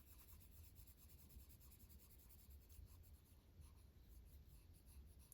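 Faint scratching of a colored pencil being stroked across a coloring-book page.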